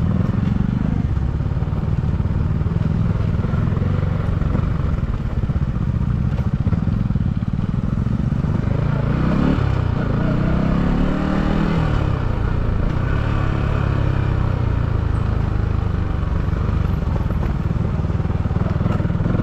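Motorcycle engine running under way, its pitch rising as it is revved up about nine seconds in and again near the end.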